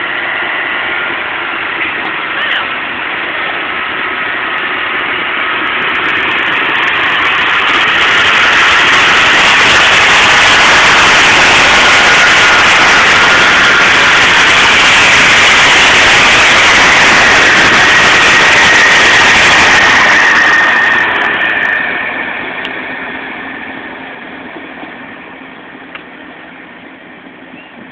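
A train passing close at speed: the noise builds over several seconds, stays loud for about twelve seconds as a rushing roar with a faint high whine, then fades away.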